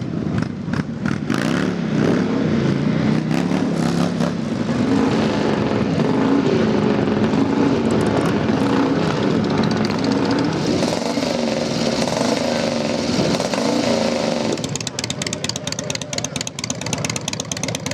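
Motorcycle engines running, their pitch rising and falling as they rev. Near the end the sound drops to a quieter, rapid, even ticking beat.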